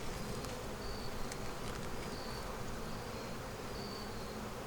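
Honeybees buzzing steadily around an open hive, with short higher whines as individual bees fly close past.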